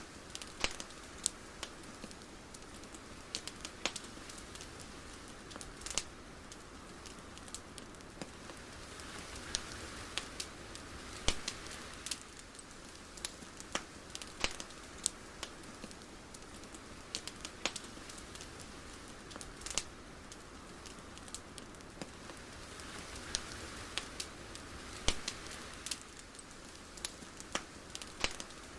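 Soft steady hiss with sparse, irregular crackles and clicks, swelling gently twice.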